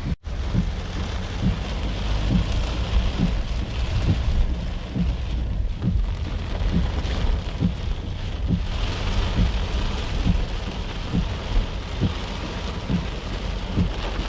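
Heavy rain falling, a dense steady hiss over a continuous low rumble, with short low thuds every so often. The sound cuts out for a split second just after the start.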